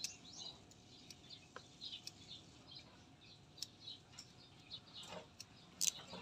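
Small birds chirping faintly in many short, high, quick notes, with a few scattered faint clicks and one sharper click near the end.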